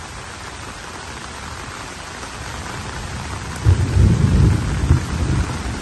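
Heavy rain falling steadily, an even hiss of downpour on water and foliage. About two-thirds of the way in, a loud, irregular low rumble comes in over the rain and becomes the loudest sound.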